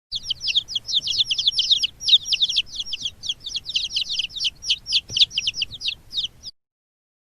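Birds chirping rapidly: a dense run of short, high-pitched calls, several a second, that cuts off suddenly near the end.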